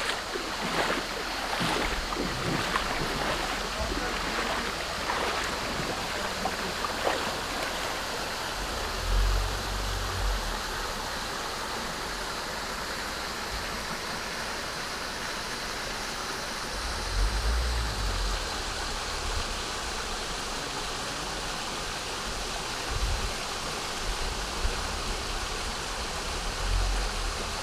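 Low-flow waterfall: a thin stream of water falling and splashing, a steady rushing hiss, with a few low thumps about nine, seventeen and twenty-seven seconds in.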